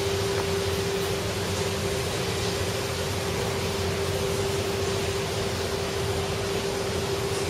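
A steady hiss with a constant low hum, from some continuously running machine.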